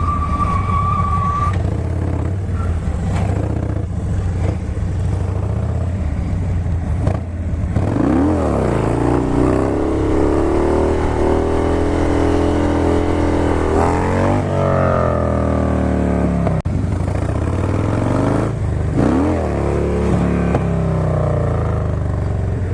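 Motorcycle engines running. From about eight seconds in, an engine revs up and down over and over for several seconds.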